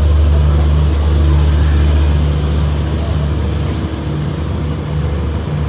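Locomotive of an arriving express train: a loud, steady low drone.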